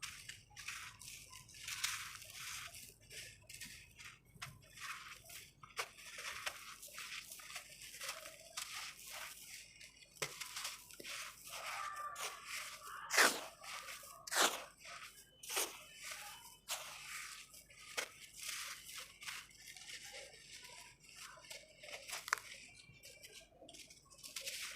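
Dry clumps of red sand-cement crumbling, with a dense, irregular run of gritty crunches and crackles. The two loudest snaps come about halfway through.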